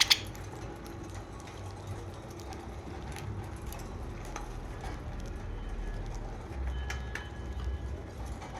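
Pet budgerigars: a short loud chirp right at the start, then mostly quiet with faint scattered chirps and small clicks over a steady low background rumble.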